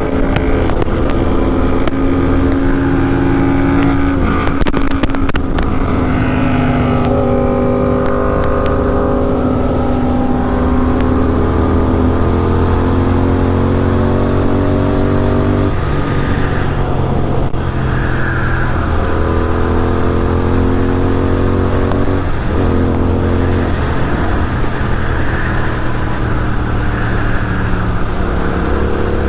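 Superbike engine and exhaust running at road speed over wind noise. The engine note sags slowly and picks back up, about halfway through and again a few seconds later.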